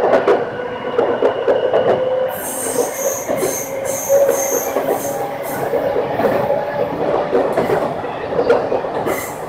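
Chichibu Railway passenger train running, heard from the driver's cab: wheels clicking over the rail joints, with a high-pitched wheel squeal on the curve from about two seconds in to about five seconds, and again briefly near the end.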